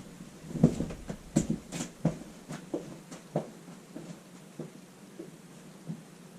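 Footsteps walking away, about one step every half second or so and growing fainter, over a steady low hum.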